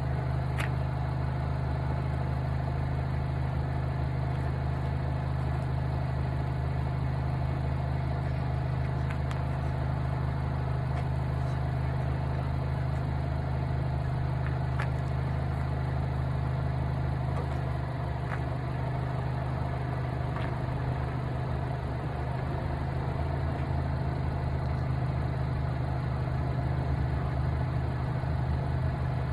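An engine idling steadily, a low even drone, with a few faint ticks.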